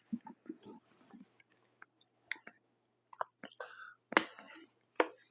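Close-up chewing of Detroit-style pizza: wet mouth clicks and smacks with soft squishy bites at an uneven pace.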